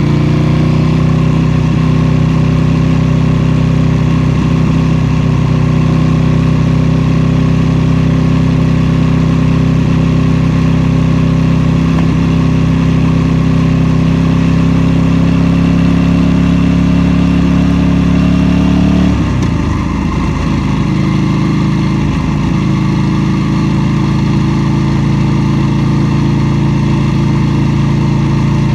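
KTM 790 Duke's parallel-twin engine pulling at steady revs, its pitch rising briefly at the start. About two-thirds of the way through the revs drop abruptly, and the engine runs on steadily at the lower pitch.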